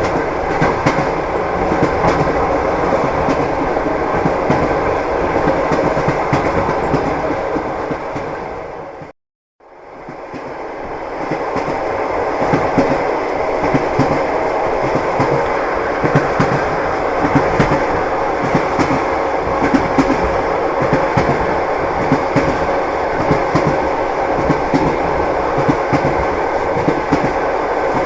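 Train wheels clacking over the rail joints with a steady rumble, heard from inside a moving passenger carriage. About nine seconds in, the sound fades out to silence for half a second and fades back in.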